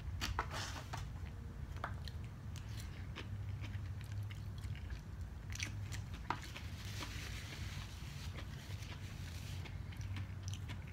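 Close-up chewing and crunching of takeout chow mein and vegetables, with scattered short clicks of a plastic fork in a foam container. A low steady hum runs underneath.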